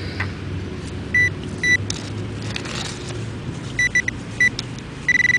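Fisher CZ-3D metal detector sounding a repeatable coin signal: short high beeps, all at one pitch, as the coil passes back and forth over the target, with a quick run of three near the middle and a longer tone at the end. A steady low rumble lies underneath.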